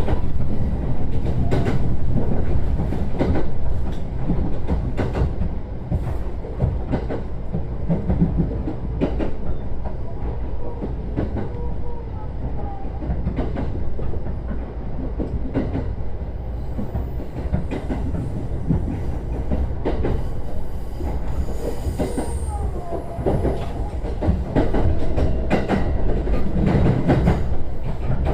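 JR East E129 series electric train running along the track: a steady rumble with the clickety-clack of the wheels over rail joints.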